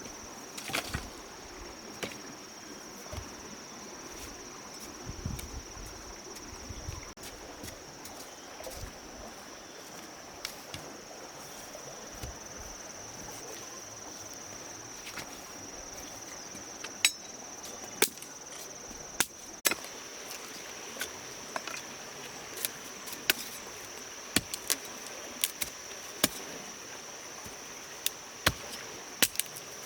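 A steady high-pitched insect drone, crickets or cicadas, with irregular sharp knocks and taps, louder and more frequent in the second half.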